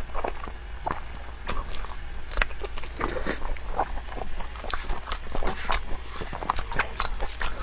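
Close-miked eating: chewing and biting, with irregular wet clicks and smacks of the mouth.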